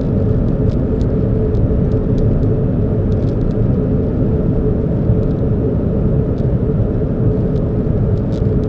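Car running with a steady low rumble and a faint steady hum, with scattered light ticks.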